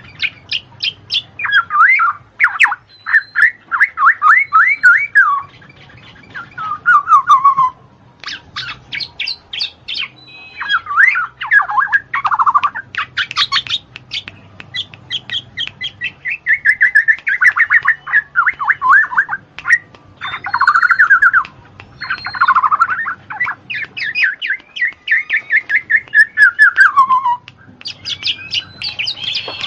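A songbird singing loudly and almost without pause: rapid trills and runs of quick chirps in phrases of a few seconds, some notes sweeping downward in pitch, with short breaks between phrases.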